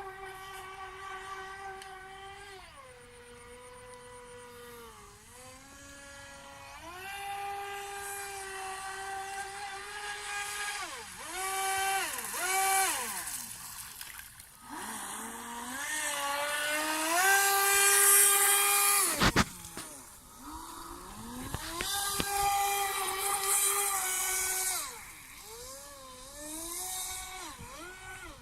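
Electric motor of an FT010 radio-controlled speedboat whining as it runs on the water, its pitch dropping and climbing again over and over as the throttle is eased and opened, with a hiss of water spray that swells in the middle and one sharp click.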